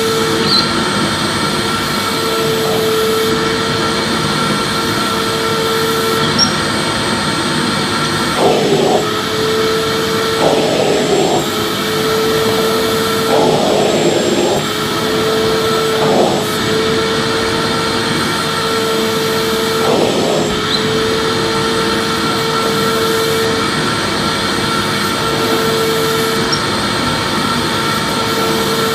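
Vacuum cleaner running steadily: an even motor drone with a steady whine, broken a handful of times near the middle by short rough flutters in the suction noise.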